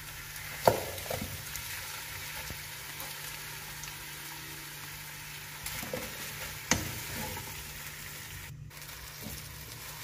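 Chopped zucchini frying in oil and spice masala in a nonstick pan as it is tipped in and stirred with a spatula: a steady sizzle, with a sharp knock about a second in and another near seven seconds.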